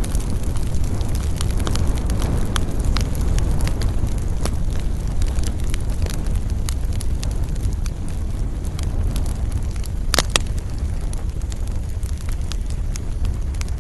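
Wood fire burning in a fireplace, crackling with scattered sharp pops over a steady low rumble. One louder pop comes about ten seconds in.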